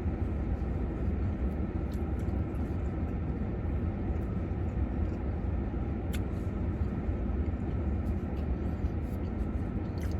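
Steady low rumble of an idling vehicle engine heard from inside the cabin, with a couple of faint short clicks from eating.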